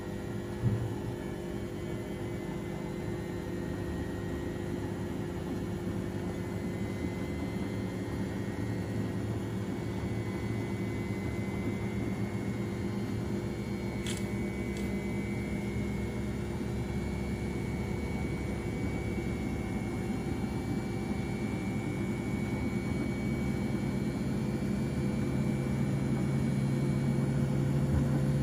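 Washing machine running with a steady motor hum that slowly grows louder, one tone rising slightly near the end as the drum speeds up. A short knock about a second in.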